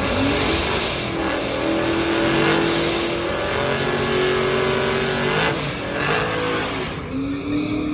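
Drag-racing car engines at full throttle accelerating down the strip, the pitch climbing and dropping back at each gear change.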